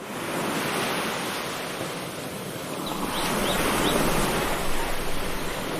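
Rushing surf, swelling and easing, with a few faint short chirps about three seconds in.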